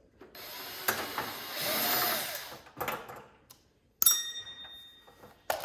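Power screwdriver whirring for about two seconds as it backs a screw out of the metal heater case, its pitch rising and falling. About four seconds in, a sharp metal clink rings briefly, and another click follows near the end.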